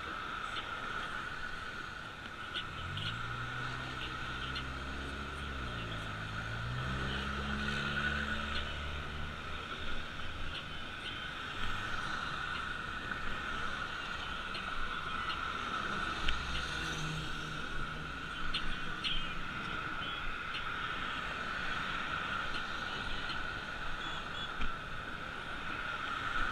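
Road traffic heard from a moving bicycle: a motor vehicle passes a few seconds in, its engine pitch rising and shifting. Underneath are a steady high hum and scattered light ticks, with a fainter vehicle passing later.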